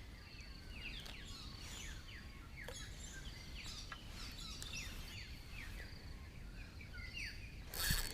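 Small birds chirping, many short falling chirps overlapping over a steady low background noise, with a brief rustle near the end.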